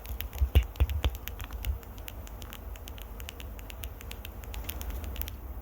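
Close-up ASMR scratching and tapping on the microphone: a dense run of small crackly clicks, with a few heavier thumps in the first second or so.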